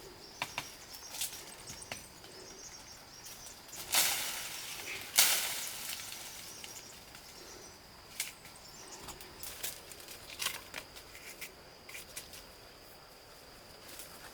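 Two loud swishing whooshes about a second apart, among scattered light clicks and knocks, over a steady thin high insect drone.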